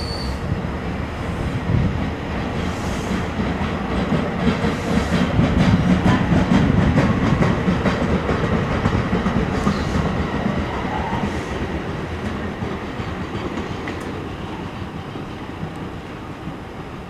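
NJ Transit multilevel passenger train rolling past on the far track, its wheels clicking over the rails. The rumble swells to its loudest about six seconds in, then fades steadily as the train moves off.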